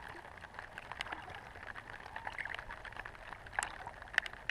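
Water trickling and lapping around a kayak, with scattered small drips and light knocks, a couple of them sharper near the end.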